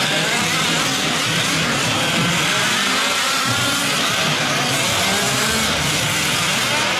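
Several 5th-scale gas RC trucks' small two-stroke engines racing together, their pitches rising and falling as they rev through the track.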